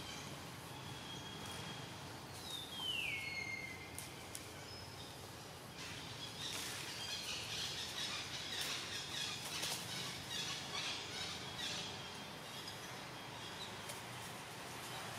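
Wild birds calling in forest: one clear whistle falls in pitch about three seconds in, and a spell of busy high chirping fills the middle, over a low steady background hum.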